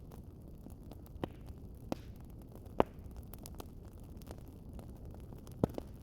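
Wood fire crackling: a steady low rumble of burning with scattered sharp pops and ticks, the loudest a little under three seconds in and a quick pair near the end.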